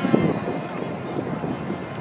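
Outdoor crowd noise: a murmur of voices, with wind rumbling on the microphone.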